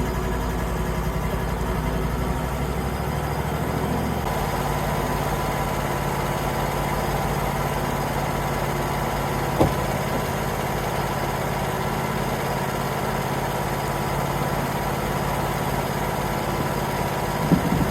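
Wood-Mizer LT35 portable band sawmill's engine running steadily; its note changes about four seconds in. A sharp click comes about ten seconds in and another near the end.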